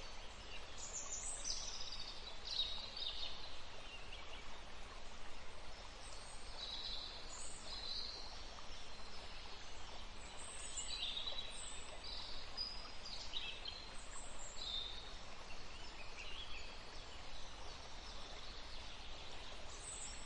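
Birds chirping faintly in the background: short, high calls that fall in pitch, repeating every second or so, over a steady low background noise.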